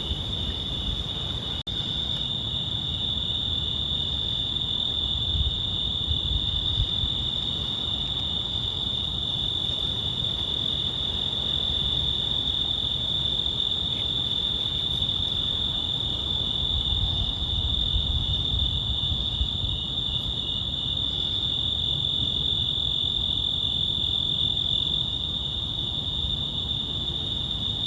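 A steady chorus of crickets trilling at one high pitch, over a low rumble.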